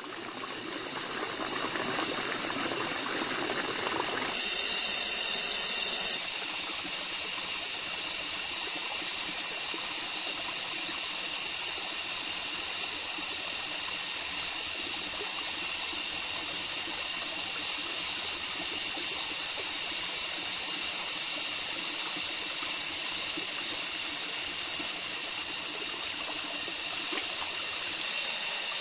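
Water running steadily, like a stream, under a high steady hiss. A short burst of rapid high pulsing comes about four to six seconds in.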